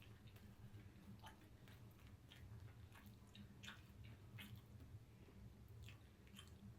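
Faint mouth sounds of a person chewing a steak burger, with scattered soft clicks and smacks at an uneven pace.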